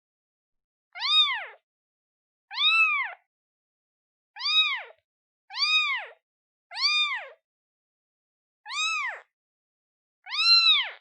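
Newborn kitten, a day old, meowing to call its mother: seven short meows a second or two apart, each rising then falling in pitch.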